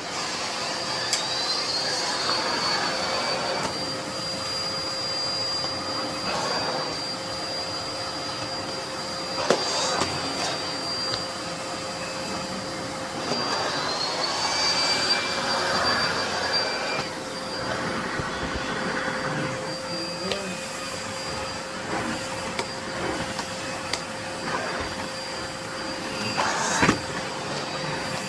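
Miele Blizzard CX1 Cat & Dog PowerLine bagless cylinder vacuum cleaner running with its Miele Turbo Tech turbo brush on the floor, giving a steady motor hum with a high whine. The whine rises in pitch about a second in and again about halfway through, and a few sharp knocks come from the tool against hard surfaces.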